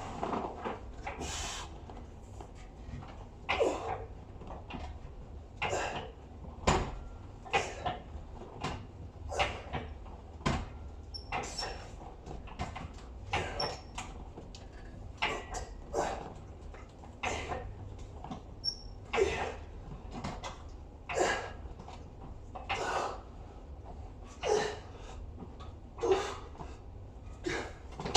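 Leg-extension machine worked through a set of reps, giving a short sliding, scraping sound about every two seconds over a steady low hum.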